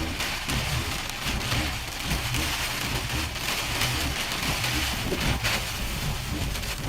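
Heavy rain falling steadily, a dense hiss of drops with an uneven low rumble beneath it.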